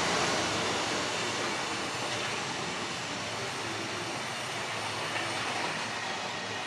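Long freight container train rolling past, a steady noise of wagon wheels running on the rails that eases off over the first couple of seconds and then holds level.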